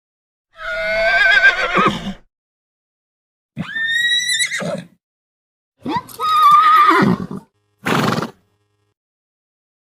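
A series of high, wavering animal calls, about four of them, each a second or so long, separated by dead silence.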